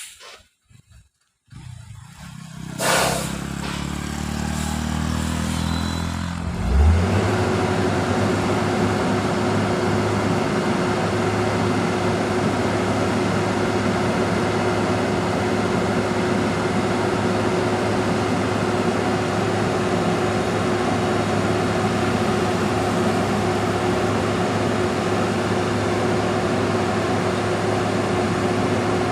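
Truck engine revving up about two seconds in, with a sharp noise soon after, then running steadily and loudly with a constant whine.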